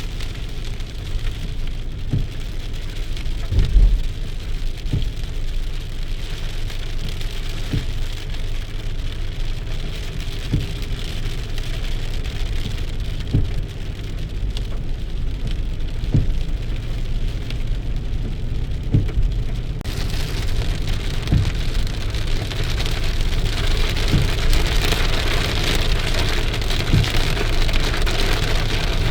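Rain falling steadily, with single drops striking close by, over a steady low rumble. About two-thirds of the way in the hiss of the rain grows heavier and brighter.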